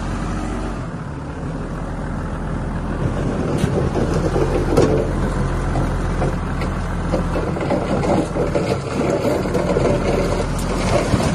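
Diesel engine of heavy earthmoving equipment running steadily, growing louder about a third of the way in, with clanks and rattles of metal over it.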